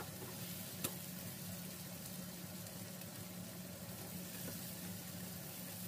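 Bell pepper pieces sizzling steadily in a nonstick frying pan as they are stirred with a spatula, with one light knock about a second in.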